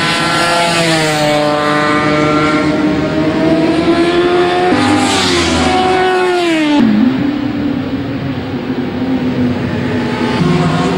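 Racing motorcycle engines at high revs, their pitch climbing and falling as they change speed. About seven seconds in one note drops sharply, like a bike passing, and a steadier engine note carries on after it.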